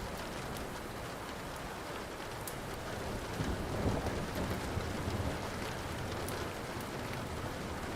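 Steady rain with low thunder rumbling, swelling briefly about four seconds in. A few sharp crackles of a burning wood fire sound over it.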